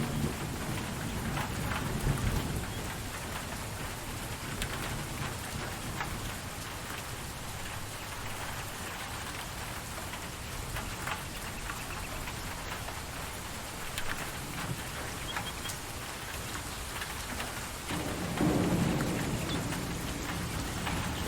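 Steady rain falling, with the ticks of single drops, and low rumbles of thunder at the start and again near the end.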